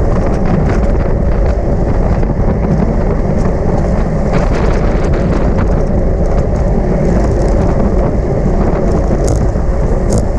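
Heavy wind noise buffeting the microphone at riding speed, with a steady low road rumble and scattered clicks and rattles.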